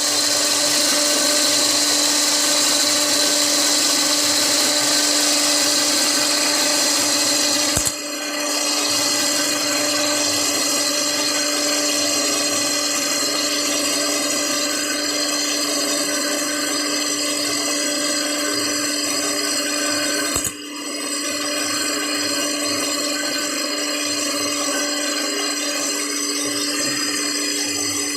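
Electric pill-rounding machine running steadily, its motor giving a continuous whirring hum with a steady tone, with two brief dips in level.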